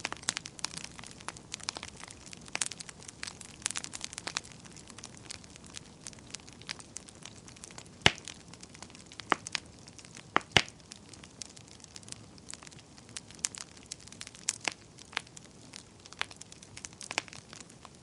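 Wood fire crackling, with a soft hiss and frequent irregular pops and snaps, two sharper pops around 8 and 10 seconds in.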